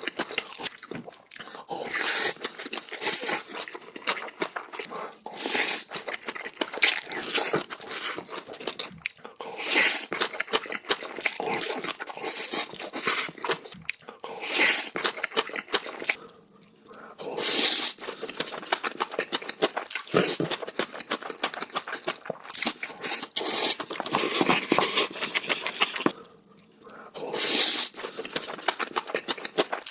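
Chewing big mouthfuls of bibimbap, with crunching and wet mouth sounds in irregular bursts, pausing briefly twice.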